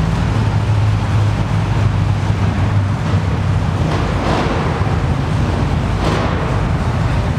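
Heavily cammed 572 cubic-inch big-block Chevy V8 in an S10 drag truck running at a steady idle, loud and low-pitched.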